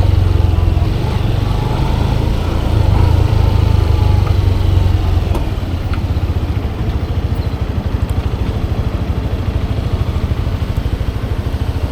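Motorcycle engine running with a steady low rumble. About halfway through it eases off a little and its separate firing beats become distinct, as when the bike slows toward idle.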